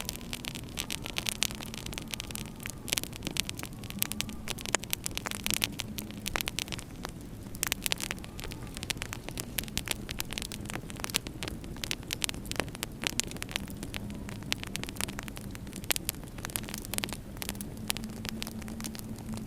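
Wood fire in a fireplace crackling, with dense, irregular sharp pops, over a steady low hum.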